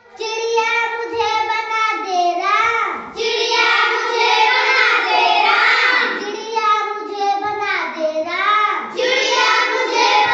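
A child's voice singing a Hindi nursery rhyme, unaccompanied, in a high, sliding melody.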